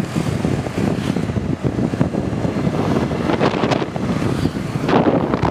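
Wind buffeting the microphone on a moving motor scooter, over the steady rumble of the ride, with stronger gusts about three seconds in and near the end.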